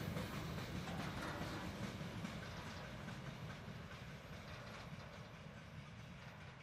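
Freight train's covered hopper wagons and a boxcar rolling past, their steel wheels rumbling and clattering on the rails, growing fainter as the end of the train moves away.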